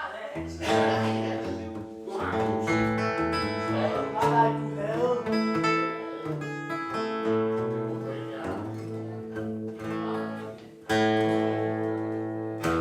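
Acoustic guitar being played, chords strummed and changing every second or so, with a loud strummed chord about eleven seconds in.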